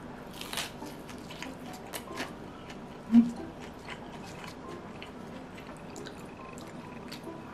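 Chewing a crispy pan-fried kimchi pancake: a run of small, sharp crunching crackles close to the mouth, with one brief low hum about three seconds in.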